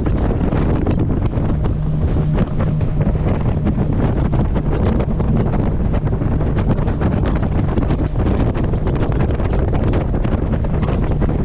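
Wind buffeting the microphone on a moving boat, over the steady hum of the boat's engine and rushing water.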